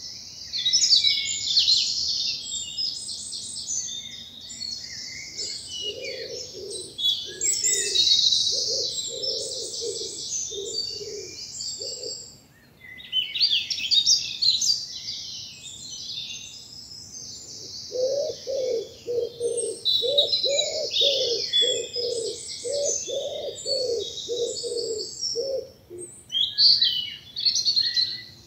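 Several songbirds singing together in a spring morning chorus, with dense, high-pitched song throughout. A pigeon coos underneath in low repeated notes, in two runs: one about a fifth of the way in and a longer one past the middle.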